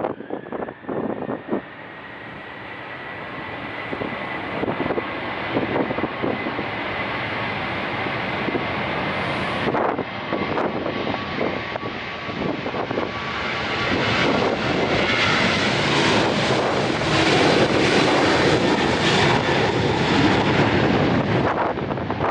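Jet airliner passing close by, its engine noise building over about fifteen seconds to a loud peak and then easing slightly, with a thin whine heard early on. Gusts of strong wind buffet the microphone near the start.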